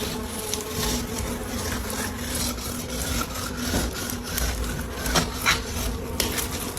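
Honey bees buzzing in a steady hum, with intermittent rubbing and scraping noises and light clicks over it.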